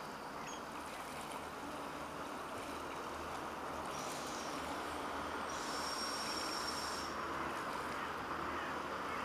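Irish Rail diesel multiple unit approaching in the distance, its sound growing slowly louder under a steady wash of wind and surf noise. A thin high-pitched whine sounds for about a second and a half around six seconds in.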